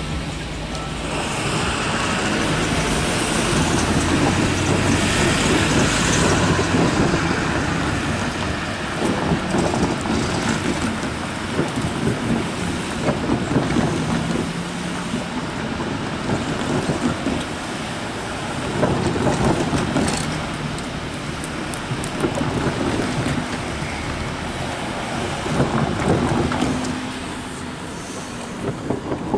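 Empty CSX coal train's cars rolling past on the rails: a steady rumble of steel wheels with louder clattering stretches, easing off near the end.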